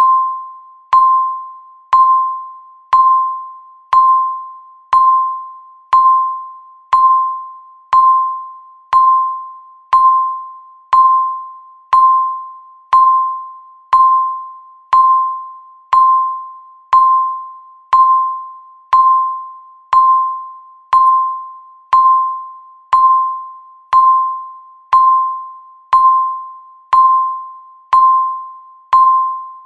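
Countdown timer's tick sound: a single pinging tone that strikes and fades away, repeating once every second at an even pace.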